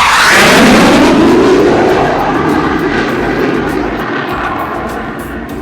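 BAE Hawk jet trainers making a fast low pass. A loud jet rush peaks in the first second, then drops in pitch and fades steadily as they fly away.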